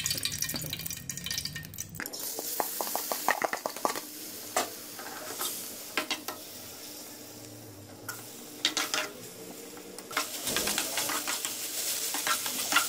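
Marinated chicken pieces sizzling as they fry in hot oil in a metal frying pan, with a spatula scraping and clicking against the pan as they are stirred.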